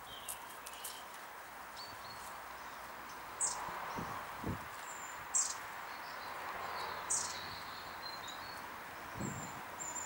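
Small garden birds calling: a few short, very high, thin chirps every second or two over steady background noise.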